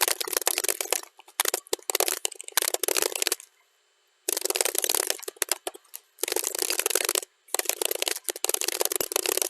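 Fast typing on a computer keyboard, a dense stream of key clicks played back at double speed, coming in runs broken by short pauses, the longest about a second long a little past three seconds in.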